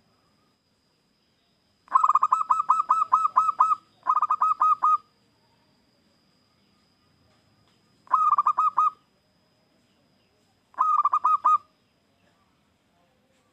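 Zebra dove (perkutut) cooing its song in four bursts of quick, repeated staccato notes, the first the longest, with pauses of a few seconds between them.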